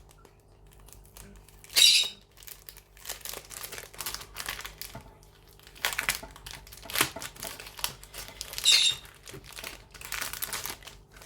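Cross stitch kit packaging handled and opened by hand, crinkling in irregular bursts, with two louder ones about two seconds in and near nine seconds.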